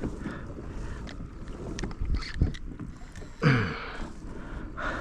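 Wind on the microphone and water moving around a kayak, with a couple of short knocks about two seconds in. A brief falling grunt comes a little past the middle.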